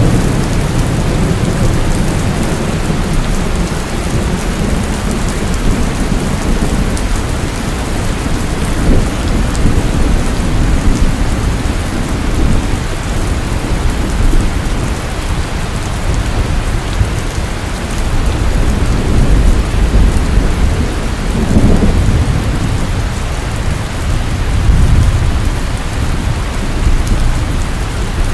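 Steady heavy rain falling, with deep rumbles of distant thunder that swell and fade several times.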